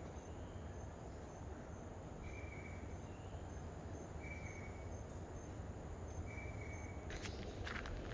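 Insects chirping in short, evenly repeated calls over a steady low background noise, with footsteps starting near the end.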